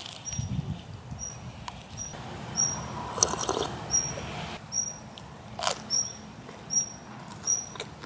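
A small bird repeating a short, high chirp roughly every three-quarters of a second. A single sharp click comes a little over halfway.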